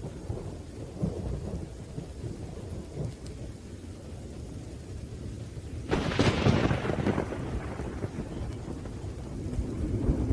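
Thunderstorm: low rolling thunder under steady rain, with a sharp thunderclap about six seconds in that fades back into the rumble.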